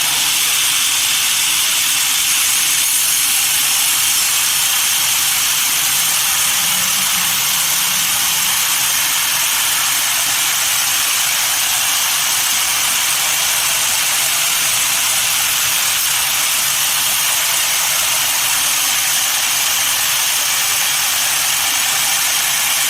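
Sawmill machinery running: a loud, steady hissing noise that holds even, with no breaks or impacts.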